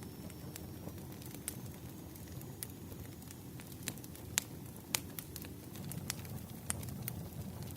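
Wood fire burning: a steady low rumble of flames under scattered sharp crackles and pops, with two louder pops about four and a half and five seconds in. A faint high whistle runs through the first few seconds and stops a little after three seconds.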